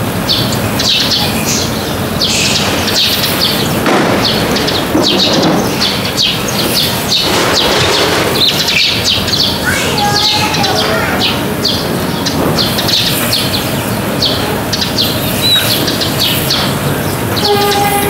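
Birds chirping over and over in short, high calls above a steady background of noise.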